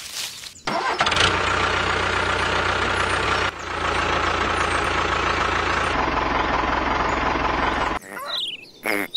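Heavy diesel engine of a construction machine running steadily, starting about a second in, briefly breaking about three and a half seconds in and cutting off about eight seconds in.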